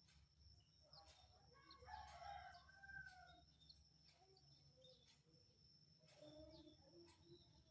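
Faint bird calls, with a longer pitched call about two seconds in and a few shorter calls later, over a steady thin high-pitched whine.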